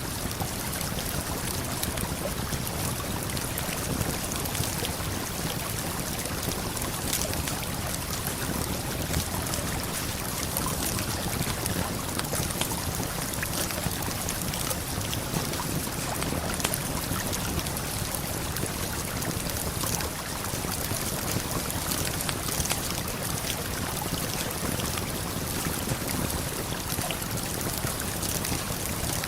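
Steady rush of a waterfall and flowing river, with a campfire crackling in small scattered snaps over it.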